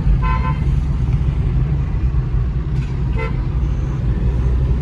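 Car engine running steadily with a low rumble, and two short car-horn beeps, one near the start and one about three seconds in.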